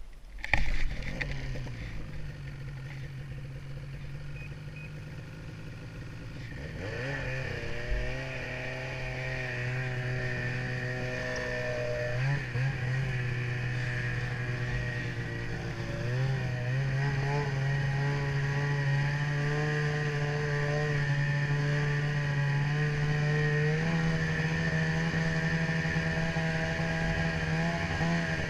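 Ski-Doo snowmobile engine running low and steady, then revving up and pulling away about seven seconds in. It cruises on with the pitch dipping and stepping up a couple of times as speed changes. There is a sharp knock just under a second in.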